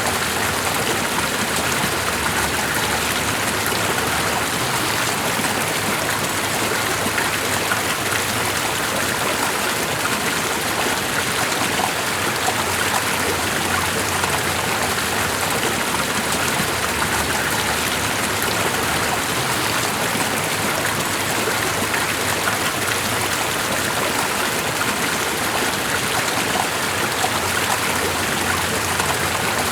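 Steady, even rush of running water, unchanging throughout with no separate drips, splashes or breaks.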